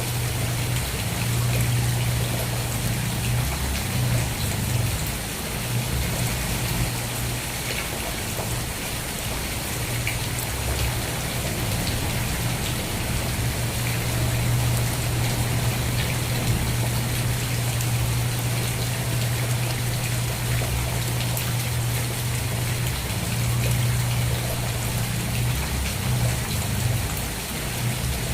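Steady heavy rain falling and pattering on surfaces, with a constant low hum underneath.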